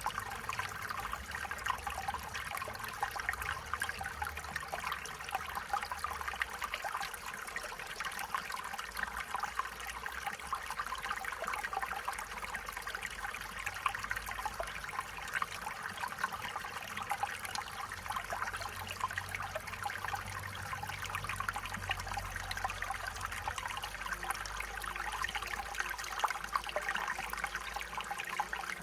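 Small stream flowing steadily, the water trickling and babbling over stones, with a faint low rumble underneath.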